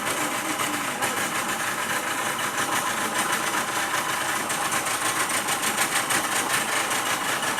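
Tour boat's outboard motor running steadily, a fast even chugging.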